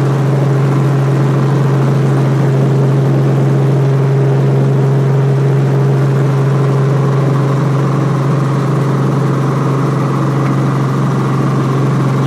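Robinson R44 helicopter running steadily: the six-cylinder Lycoming piston engine and rotors make a loud, unbroken drone with a strong low hum.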